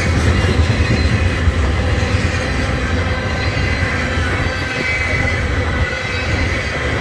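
Loaded tank cars of a freight oil train rolling past on the near track: a steady low rumble of steel wheels on rail, with a thin, steady high squeal from the wheels above it.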